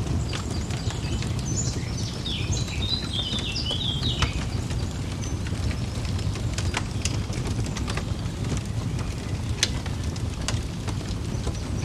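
Fireplace fire crackling with sharp scattered pops over a steady low rumble, with a short burst of birdsong chirping from about two to four seconds in.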